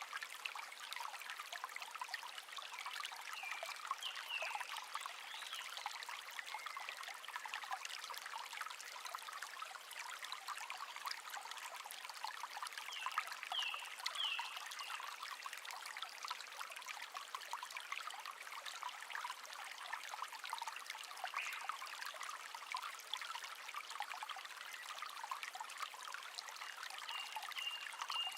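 Shallow stream trickling and babbling steadily, with a few short bird chirps now and then: a cluster a few seconds in, another about halfway, and one near the end.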